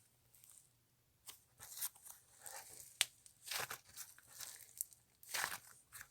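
Clay-mixed slime being squished and pulled by hand: a string of short, separated squishing and tearing sounds, with one sharp pop about three seconds in.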